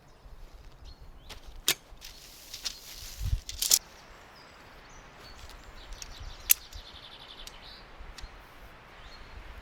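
A few sharp knocks or clicks, the loudest near the middle, with a short rustle just before it.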